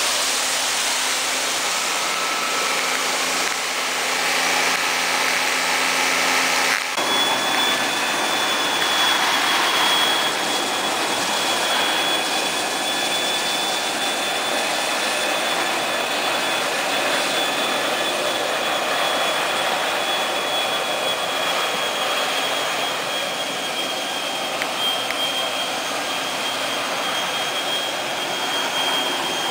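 Kärcher floor scrubber-dryer running with a steady rushing noise. About seven seconds in, a lower hum cuts out and a steady high whine from the suction motor takes over.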